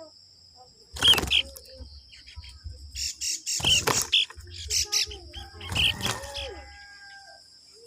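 Bird chirping in three short bursts of sharp calls, about a second in, around three to four seconds in, and around six seconds in, over a steady faint high-pitched whine.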